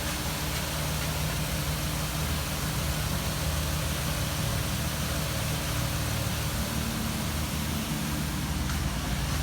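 A car engine idling steadily, a low even hum with a hiss over it.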